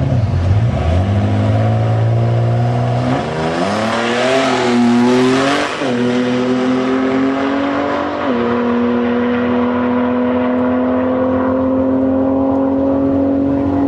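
Nissan 300ZX's V6 engine accelerating hard through the gears: the pitch climbs, drops at upshifts about six and eight seconds in, then rises slowly in the higher gear.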